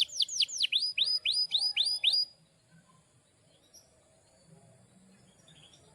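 Canary singing a run of quick, repeated downward-sweeping whistled notes, about four or five a second, that stops about two seconds in. A few faint chirps follow over low background.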